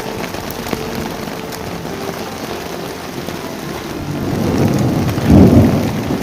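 Heavy rain falling steadily, with a rumble of thunder that builds about four seconds in and peaks near the end.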